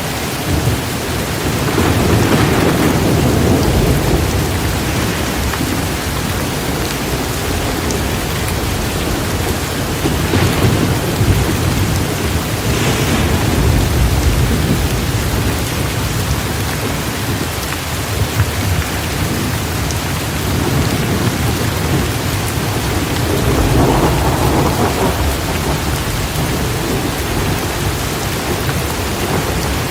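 Heavy, steady rain with rolling thunder that swells and rumbles low three times: about two seconds in, around ten to fourteen seconds, and near twenty-four seconds.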